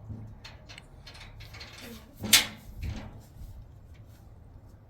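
A single sharp knock about two seconds in, amid a few fainter clicks and handling noises.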